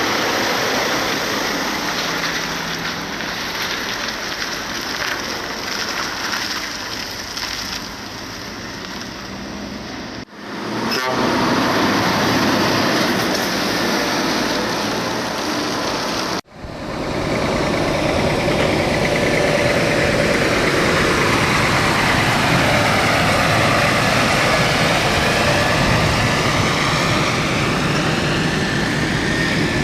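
Motor vehicles driving on a road: steady engine and tyre noise, cut off abruptly twice by edits. In the last shot a passing vehicle's tones slide in pitch.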